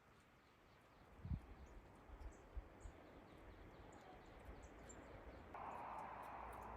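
Faint bird calls over quiet forest ambience, with a few soft low thumps from about a second in and a brief rushing noise near the end.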